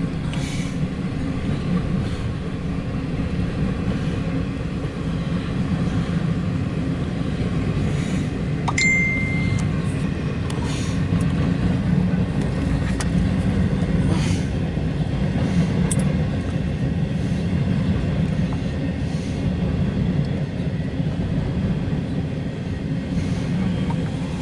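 Steady low vehicle rumble with a few faint clicks and one brief high tone.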